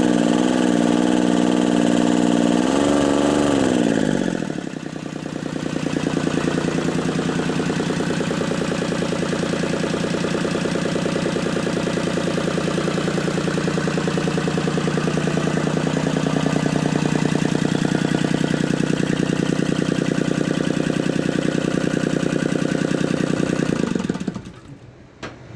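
Mitsubishi S3L2 three-cylinder diesel engine running at raised speed, dropping back about four seconds in, then idling steadily before being shut off and stopping abruptly near the end.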